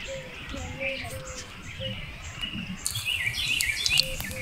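Birds chirping: a string of short repeated notes, with a quick run of higher, falling chirps about three seconds in.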